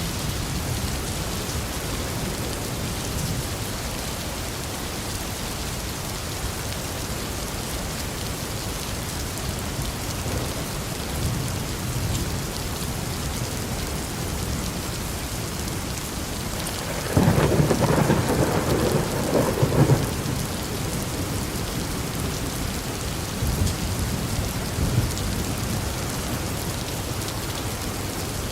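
Steady rain falling, with thunder: a loud rumble of thunder about two-thirds of the way in lasts about three seconds, followed by fainter rumbles.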